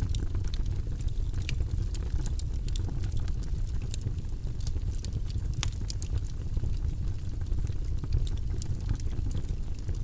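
Wood fire burning in a fireplace, crackling with frequent sharp irregular pops over a steady low rumble.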